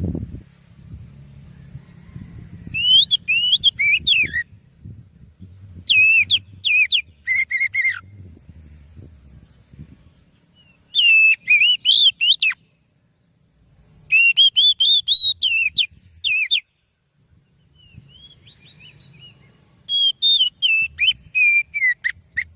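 Oriental magpie-robin (kacer) singing: five loud phrases of fast, sweeping whistled notes, separated by pauses of a few seconds, over a faint low rumble.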